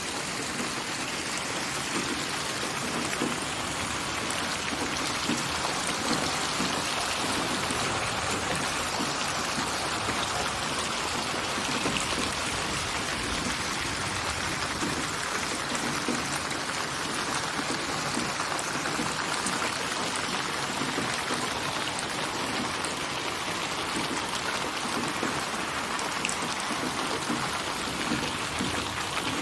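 Steady rainfall, a dense patter of drops hitting surfaces, as a synthesized ambience built from layered rain recordings and panned around the listener.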